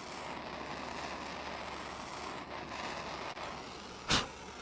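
Handheld gas torch flame hissing steadily as it heats automotive seam sealer to soften it for peeling off. There is one short, sharp, loud burst about four seconds in.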